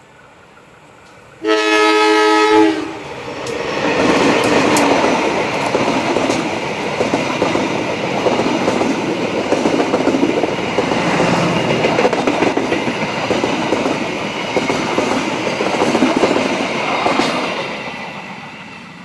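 Diesel locomotive air horn sounding once for about a second, a chord of several tones, then a passenger train passing close by: engine and a long run of coach wheels clattering on the rails, fading away near the end.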